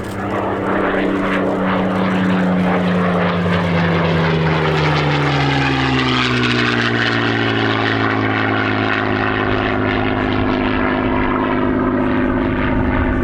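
A Supermarine Spitfire's V12 piston engine droning as it passes, its pitch dropping over a few seconds in the middle and then running steady.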